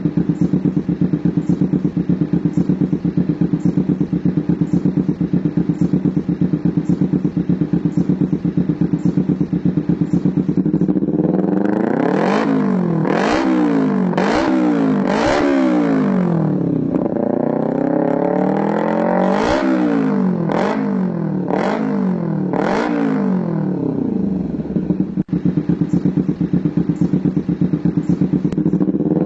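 Motorcycle engine through an Akrapovic GP-style racing exhaust, idling with an even pulse, then revved in a string of quick throttle blips, each rising and falling in pitch, about eleven seconds in, before dropping back to idle near the end.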